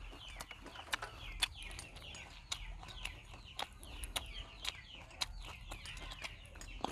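Birds chirping: many short, falling chirps in quick succession, with scattered sharp clicks.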